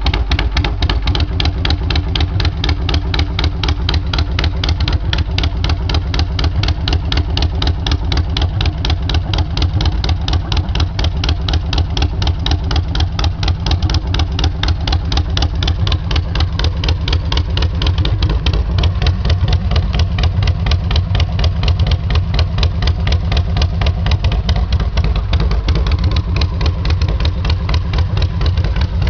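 1940 Harley-Davidson Knucklehead overhead-valve V-twin idling steadily after being kick-started, a slow, even beat of exhaust pulses.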